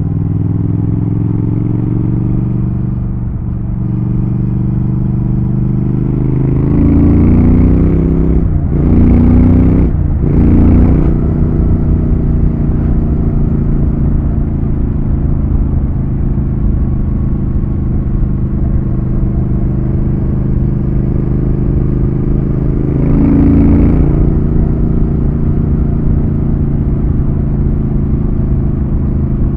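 Triumph Thruxton RS's 1200 cc parallel-twin engine riding on the road. It climbs in revs through two quick upshifts about a third of the way in, then holds a steady cruise, with another short rise and easing of revs later on.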